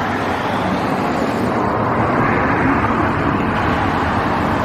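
Steady road traffic noise, a rushing sound that builds slightly and then holds.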